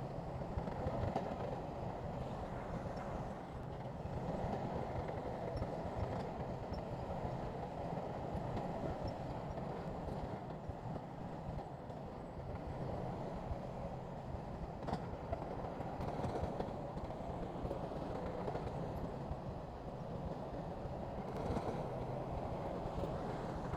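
Diesel engine of a crawler bulldozer at work, running steadily with no letup.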